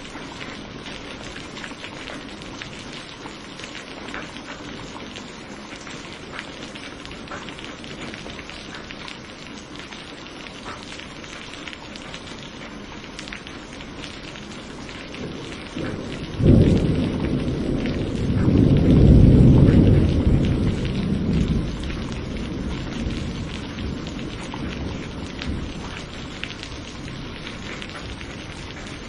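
Steady heavy rain with a patter of drops, and a roll of thunder that cracks in sharply past the halfway point, rumbles loudest a few seconds later and fades away.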